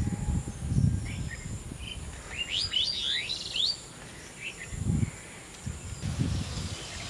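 Outdoor ambience with a bird calling: a quick run of short rising chirps about two to four seconds in, with a few low rumbles scattered through.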